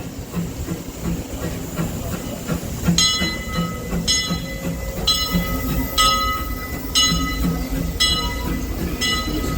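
Disneyland Railroad steam locomotive's bell ringing about once a second, starting about three seconds in. Under it, a low rhythmic thump comes about twice a second.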